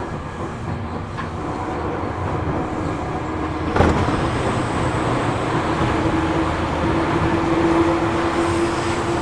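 Seibu New 2000 series electric train heard from inside the car while running: a steady rumble of wheels on rail. A single sharp knock comes about four seconds in, and a steady mid-pitched tone follows.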